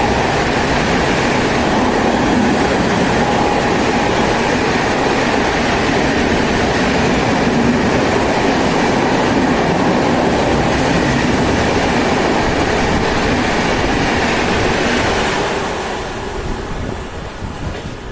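Indian express train passing at high speed: a steady loud rush of coaches and wheels on the rails. The rush falls away sharply about sixteen seconds in as the end of the train goes by.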